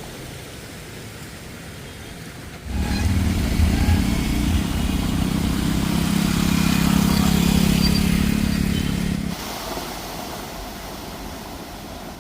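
A motor vehicle's engine running close by, starting abruptly about three seconds in and cutting away a few seconds before the end, over a steady background hiss.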